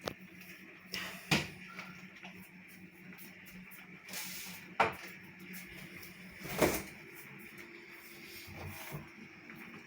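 Three short, sharp knocks, about a second, five seconds and nearly seven seconds in, over a faint steady hum.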